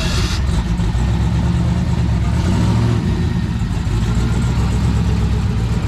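Car engine running steadily at low revs with a deep exhaust note and a short hiss right at the start.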